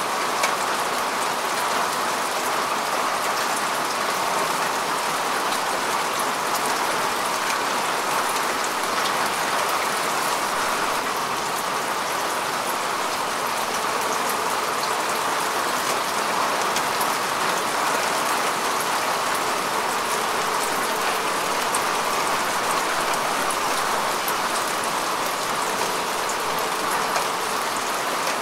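Steady rain falling on grass and earth, a dense even hiss with many fine drop ticks.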